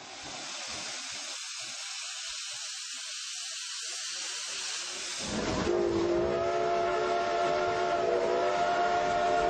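Sound-equipped model Shay steam locomotive: a steady high steam hiss, then a steam whistle that cuts in about halfway through and holds a long chord of several tones, louder than the hiss.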